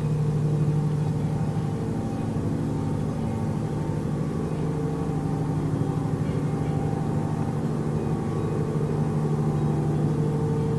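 A steady low-pitched hum with several overtones, swelling and fading slightly, that runs on without a break. It is the unexplained night-time drone that sounds like an airplane but goes on for hours.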